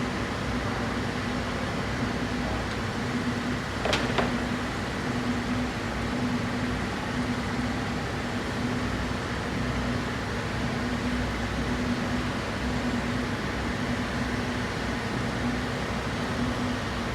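Steady mechanical hum, with a faint tone pulsing on and off about once a second, and a single sharp click about four seconds in.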